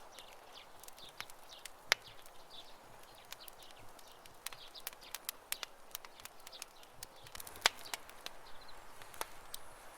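Wood campfire crackling with irregular sharp pops, two louder ones about two seconds in and near the eight-second mark. Birds chirp faintly in the background.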